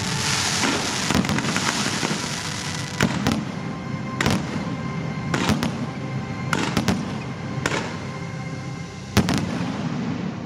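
Aerial fireworks going off: a quick series of bangs over crackling, with the loudest single bang about nine seconds in, while music plays faintly underneath.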